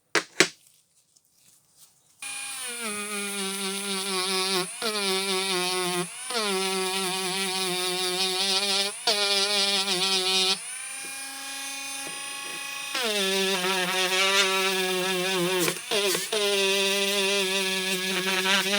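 A sharp knock, then from about two seconds in a small electric power tool runs with a steady whine, its pitch dipping briefly several times as it meets the work and easing off for a couple of seconds in the middle, typical of cleaning rust off steel.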